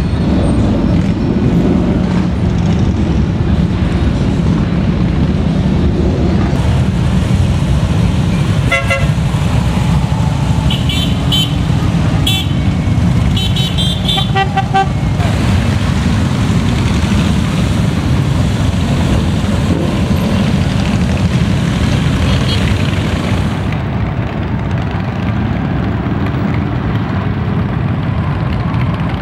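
A steady rumble of many motorcycle engines riding past, with several short horn honks about a third of the way through.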